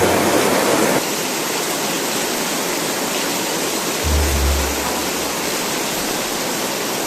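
Heavy downpour of rain, a steady dense hiss, with low notes of background music about four seconds in.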